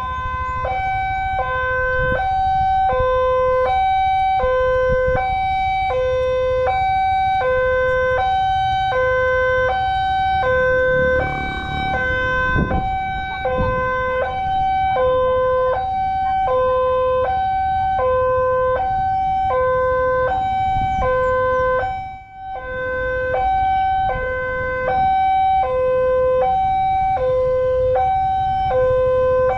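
Two-tone electronic warning signal alternating steadily between a low and a high note, about one high-low pair every second and a half, over a low rumble. It drops out for a moment about three-quarters of the way through, then resumes.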